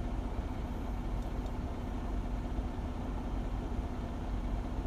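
Semi-truck's diesel engine idling steadily, a low even rumble with a faint constant hum.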